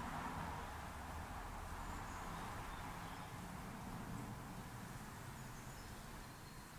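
Faint outdoor garden ambience through a trail camera's microphone: a steady hiss and low rumble, with a few faint, short, high bird chirps.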